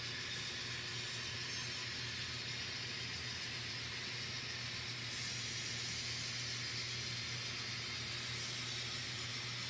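N scale model train running steadily around the layout: an even hiss over a low steady hum, with no sudden sounds.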